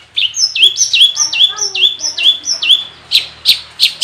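Long-tailed shrike (cendet) singing: a run of repeated notes, each sliding down from high to lower, about two and a half a second, then sharp, harsh short notes near the end, part of its mimicked song repertoire.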